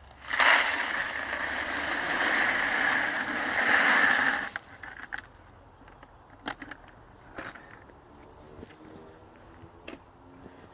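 Loose decorative stones poured out in a rush for about four seconds, then a few scattered clicks of stones settling.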